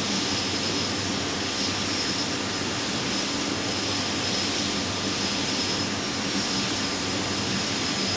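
Steady drone of an Airbus A320-214 in flight on final approach: its CFM56 jet engines and airflow, with a faint high whine held at one pitch.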